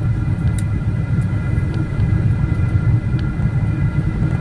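Cabin noise inside a Boeing 777-300ER: a steady low rumble with a thin, steady high whine over it, and a few faint clicks.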